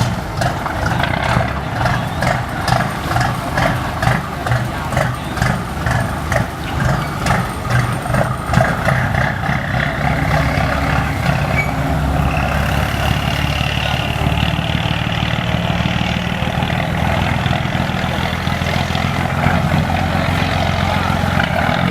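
Boat engine running steadily. It pulses about three times every two seconds for the first eight or nine seconds, then settles into an even drone, with a higher whine joining about twelve seconds in.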